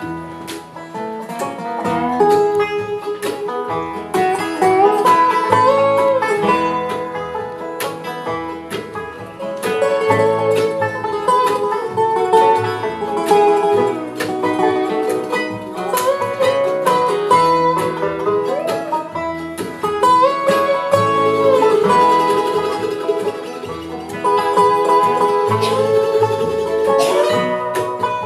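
Bluegrass band playing an instrumental break: banjo and guitar picking under a lead melody line that slides between notes.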